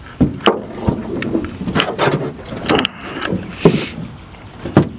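Irregular knocks and clunks of gear being handled aboard a small boat, a dozen or so sharp hits, the loudest two near the end.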